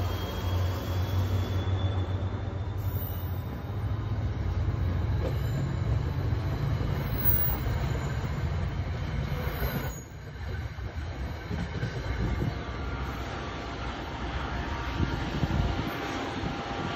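Commuter train passing close by, led by a GP40PH-2 diesel locomotive with its EMD 16-cylinder two-stroke engine: low engine rumble and wheel noise on the rails, with a faint thin whine rising slowly over the first few seconds. The sound drops suddenly about ten seconds in, then rough rumbling wheel noise of passing coaches carries on.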